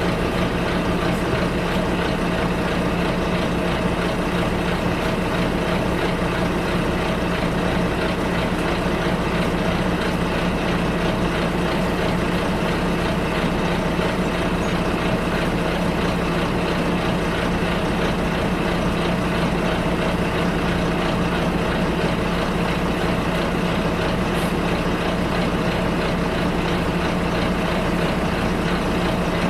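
Bus engine running steadily, heard from inside the passenger cabin: an even drone with a constant low hum.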